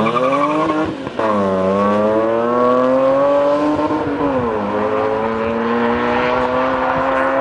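Car engine accelerating hard through the gears: its pitch climbs, falls sharply at an upshift about a second in, climbs again, and falls at a second upshift a little past four seconds before rising once more.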